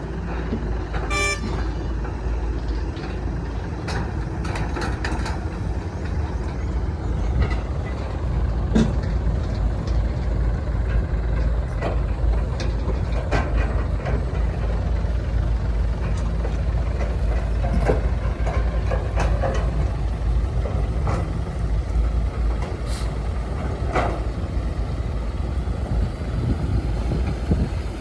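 Heavy earthmoving machinery at work: a diesel engine running with a steady low rumble, overlaid with scattered metallic clanks and squeaks. A short pitched toot sounds about a second in.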